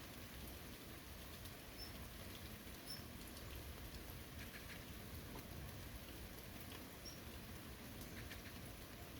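Light rain falling: a steady soft hiss with scattered drops tapping. A few brief high chirps sound faintly over it, about four times.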